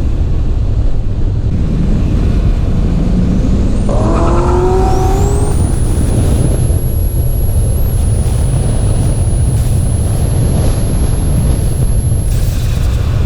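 Car engine running loud and steady, its note climbing as it accelerates about four seconds in. A high-pitched whine then rises and holds for about six seconds before cutting off shortly before the end.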